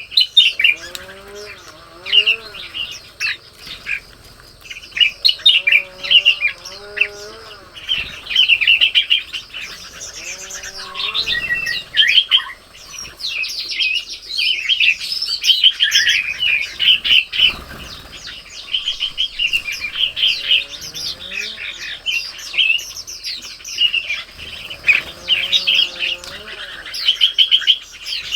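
Many small songbirds chirping and calling almost without a break. A separate lower call that rises and falls comes back every few seconds.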